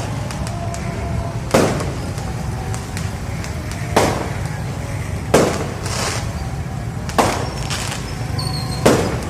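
Fireworks going off: five sharp bangs spaced one to two seconds apart, with fainter crackles between them, over a steady low rumble.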